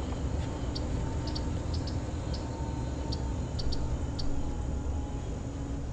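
Short, high chirps of a small bird, often two in quick succession, repeating every half second to a second over a steady low rumble.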